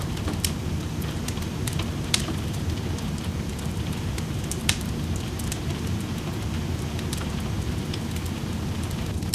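Wood fire in a fireplace crackling, with irregular sharp pops, the loudest about two seconds in and about halfway through, over a steady low rush of rain.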